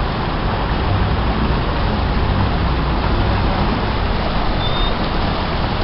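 Water rushing steadily over a reservoir spillway as the dam overflows, a loud continuous roar-like rush with a deep rumble underneath.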